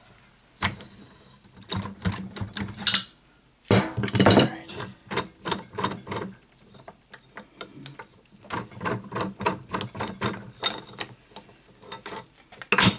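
Ratchet wrench clicking in quick runs, with several louder metal clanks, as a ball joint press is worked on a tractor's clutch throwout bearing.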